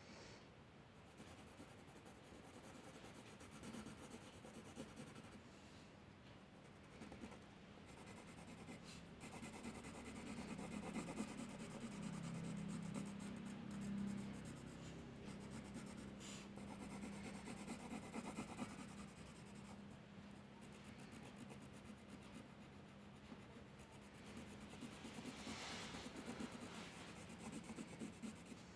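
Drawing on paper: a pen tip scratching and rubbing in short strokes, faint, over a low steady hum.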